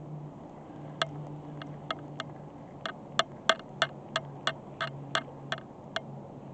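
A run of about fifteen sharp clicks, roughly three a second and slightly uneven, over a steady low hum.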